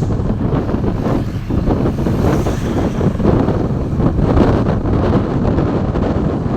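Road vehicle noise with heavy wind buffeting the microphone: a steady, dense rumble with no horn.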